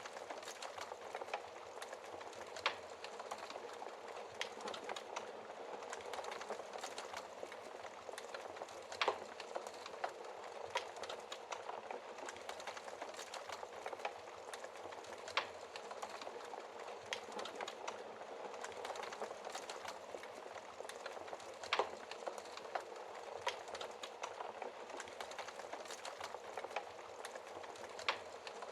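Wood fire crackling steadily in a fireplace, a dense stream of small crackles with a louder sharp pop every few seconds.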